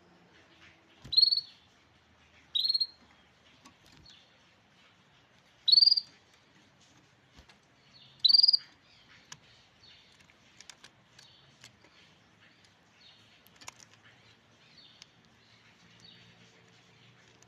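Grey canary calling: four loud, short calls a couple of seconds apart, then softer scattered chirps.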